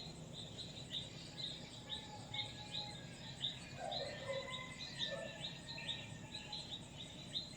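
Birds chirping: a steady run of short, high, falling chirps, about three a second, with a few lower calls in the middle.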